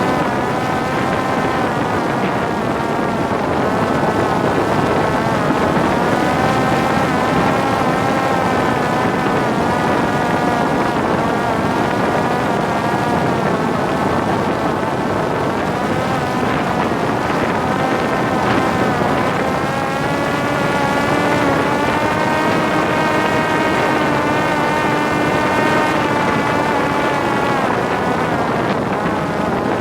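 Parrot Disco drone's electric motor and rear pusher propeller whining in flight, the pitch slowly rising and falling as the throttle changes, with wind rushing over the onboard microphone.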